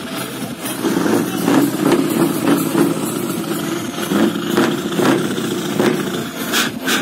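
Heavy truck diesel engine idling steadily, with irregular sharp clicks over it.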